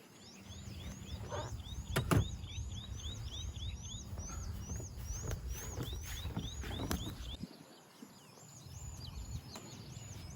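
Birds chirping in quick repeated notes, about three or four a second, over a low outdoor rumble, with a few sharp knocks, the loudest about two seconds in.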